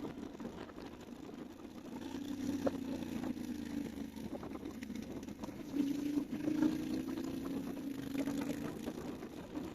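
Motorcycle engine running at low, steady revs, with the engine note swelling twice, about two seconds in and again about six seconds in.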